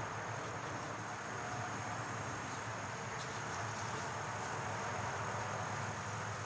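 Steady outdoor background ambience: an even, low hiss and rumble with a thin, continuous high-pitched tone over it, like insects droning.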